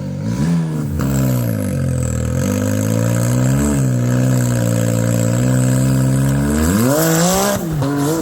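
Side-by-side UTV engine revving hard and held at high revs under load. About seven seconds in the revs climb further, then drop sharply and rise and fall in short blips.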